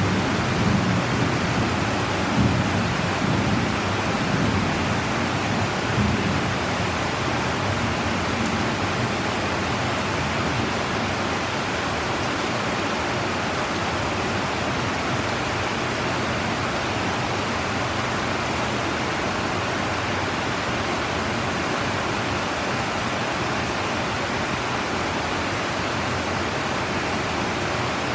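Heavy rain pouring steadily, with thunder rumbling low through the first several seconds and then dying away, leaving only the even hiss of the rain.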